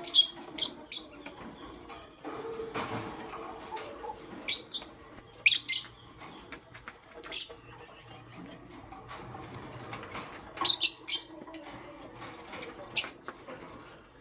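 Lovebirds chirping: short, sharp, high-pitched calls in scattered clusters of a few at a time, with quieter gaps between.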